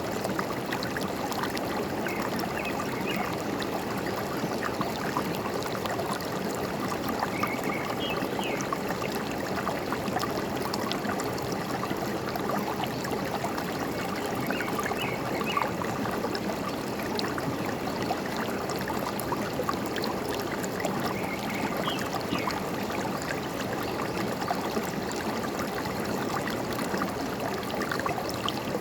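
Forest stream running steadily, a continuous babble of water, with a few brief bird chirps every several seconds.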